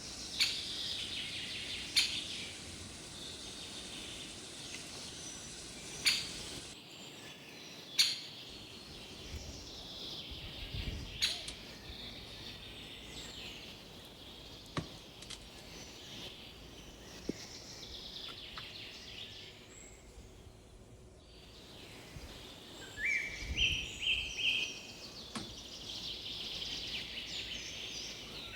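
Birds chirping, with a few sharp clicks or knocks in the first half and a burst of short stepped calls near the end.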